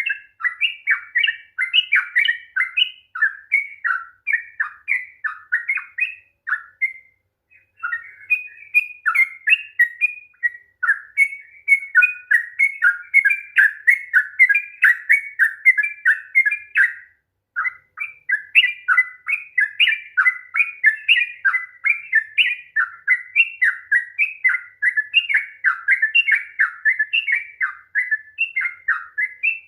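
Yellow-vented bulbul (trucukan) singing a long, rapid run of bubbling, chattering notes, broken twice by brief pauses.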